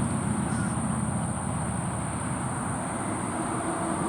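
Steady outdoor ambience: a continuous high-pitched insect trill over a low rumble of road traffic.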